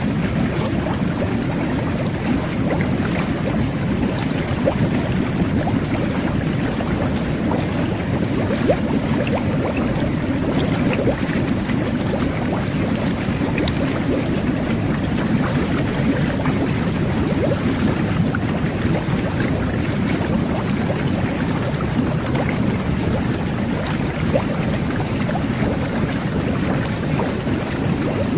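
Jet bath churning the bathwater: a steady, low bubbling rush with scattered small pops.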